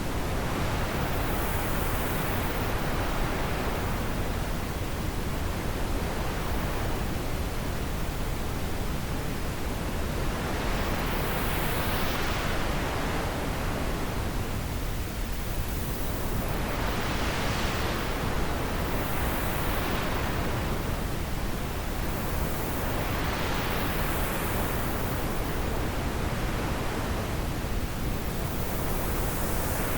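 Wind blowing steadily, swelling and easing in soft gusts every few seconds.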